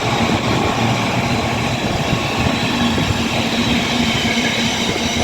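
Freight train behind Class 66 diesel locomotive 66729 passing through the station, its wagons rolling past on the rails with a steady rumble and clatter. A steady low hum joins about two and a half seconds in.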